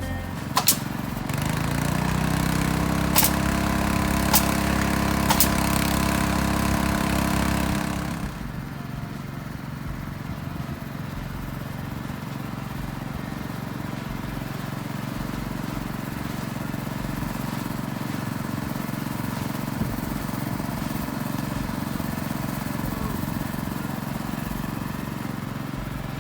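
An engine revs up about a second and a half in and runs steadily at the higher speed, with a few sharp knocks. About eight seconds in it drops back to a lower, steady run.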